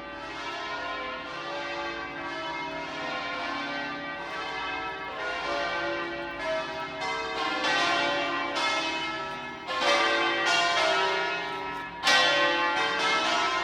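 Bells ringing: many overlapping strikes with long, ringing tones, and two louder strikes about ten and twelve seconds in.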